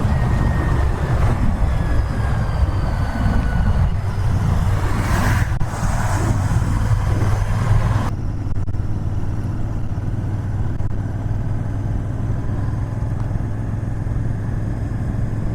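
Royal Enfield Interceptor 650's parallel-twin engine and exhaust running steadily while riding, with wind and road hiss over the microphone that drops off abruptly about eight seconds in.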